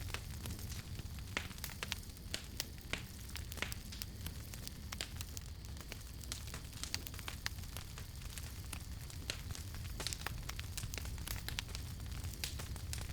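Wood fire crackling, with irregular sharp snaps scattered through a low steady rumble.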